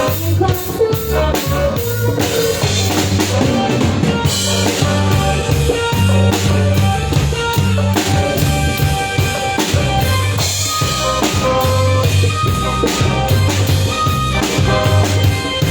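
Live band playing with a full drum kit, snare rimshots and bass drum over a steady bass line and pitched instruments.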